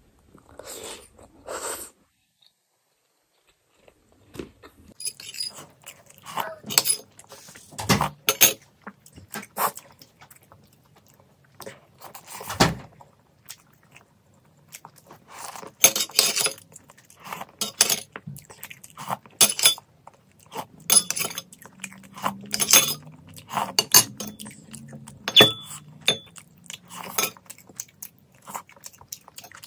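Chewing and eating sounds of chicken momo dumplings, with many small wet clicks and occasional clinks of tableware. The sound drops out for about two seconds shortly after the start.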